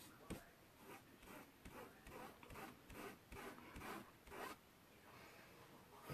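Faint quick rubbing strokes, about a dozen of them, as misplaced chalk paste is wiped off the transfer surface; they stop about four and a half seconds in.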